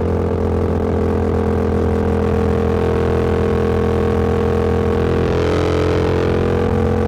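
Motorcycle engine running steadily at an even cruising speed, its pitch unchanging. A brief swell of rushing noise comes and goes about five seconds in.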